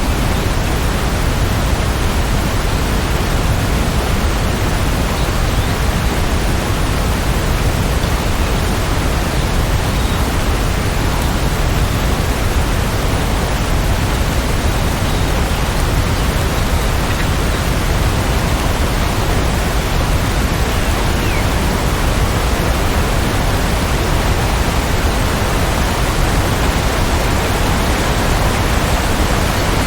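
Rain falling steadily: an even, unbroken hiss with no separate drops or pauses.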